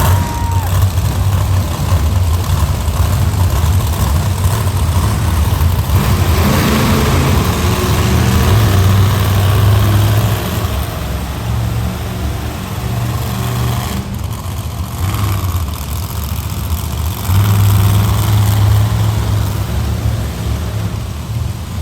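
Monster truck engine running loud, its throttle rising and easing, with a quieter spell in the middle and a swell again near the end.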